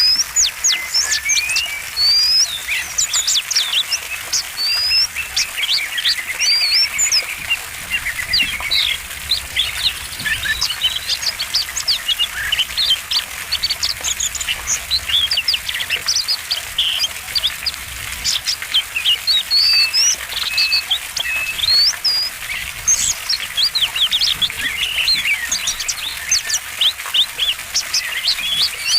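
Oriental magpie-robin (kacer) singing non-stop: a rapid, varied stream of high whistles, chirps and sweeping notes.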